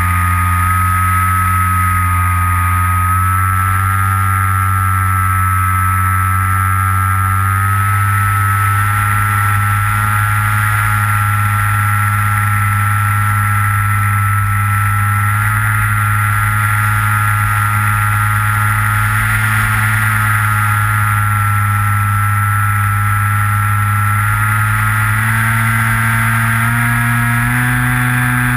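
Electric motor and propeller of a Skywalker RC plane heard from its onboard camera, a steady loud hum whose pitch shifts slowly with throttle and climbs in steps near the end.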